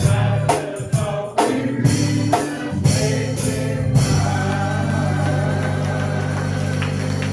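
Gospel hymn sung by voices with instrumental accompaniment and percussion hits on the beat; about four seconds in the beat stops and a chord is held.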